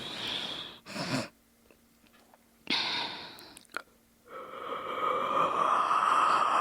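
A person yawning, with breathy, drawn-out inhales and exhales. A yawn tails off at the start and a quick breath follows. After a pause there is another breath, and then a long yawn builds through the last couple of seconds.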